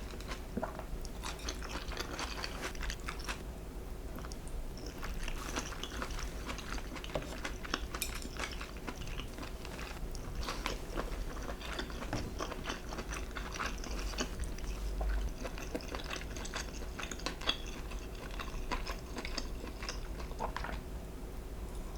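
Close-miked chewing and biting of food, a continuous run of wet, crunchy clicks and crackles.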